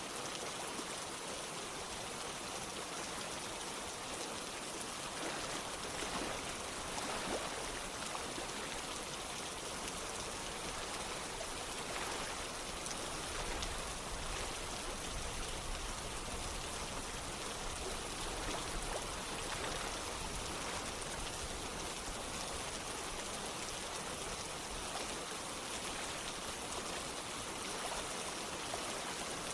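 Steady rain falling with running water, an even hiss with the patter of single drops.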